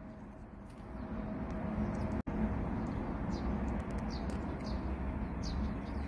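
Outdoor ambience: a steady low rumble with small birds chirping, short high notes that fall in pitch, several in the second half. The sound drops out for an instant about two seconds in.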